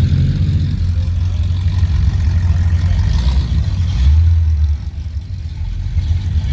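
Low engine-and-exhaust rumble of a classic car rolling past at low speed, swelling about four seconds in, then dropping off sharply.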